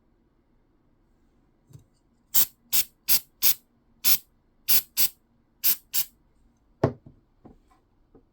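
Nine short squirts from an aerosol adhesive spray can in quick succession, setting a freshly glued seam. A single sharp knock follows about seven seconds in.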